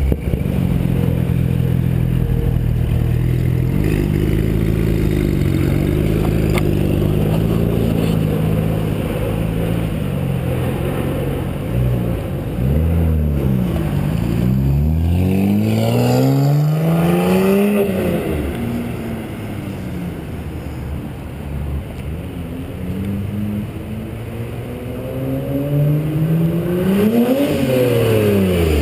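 BMW 135i's turbocharged straight-six running through a prototype stainless exhaust with downpipes and no tips fitted: idling steadily, then revved up and let fall back about halfway through, and revved again near the end.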